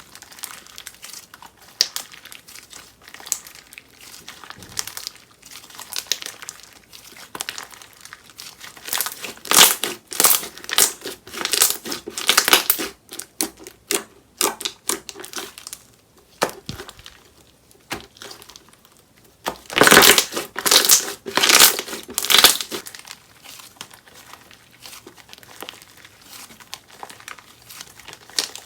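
Slime being squeezed, folded and pressed by hand, giving dense crackling and crinkling clicks. The crackling swells in two louder spells, around a third of the way in and again about two-thirds in.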